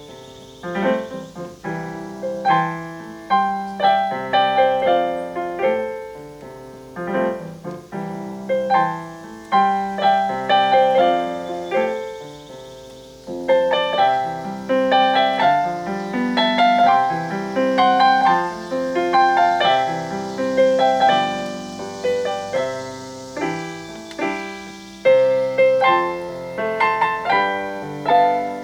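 Solo piano playing a country ballad melody in the slip-note style, with rhythmic chords under the tune. A faint, steady cicada drone sits high behind the piano.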